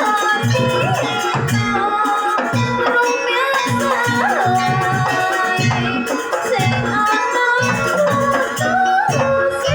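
Live jaranan ensemble music: drums beating a steady pattern of about two strokes a second under a held melody line that bends up and down in pitch.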